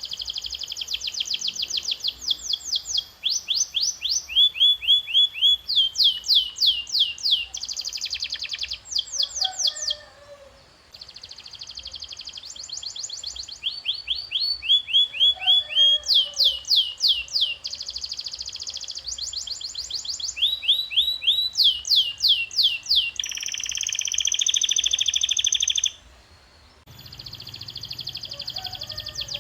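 Domestic canary singing a long song of tours: fast trills of rapidly repeated, downward-sweeping notes, changing from one tour to the next, with a buzzy rolling phrase late on. The song breaks off briefly about a third of the way in and again near the end.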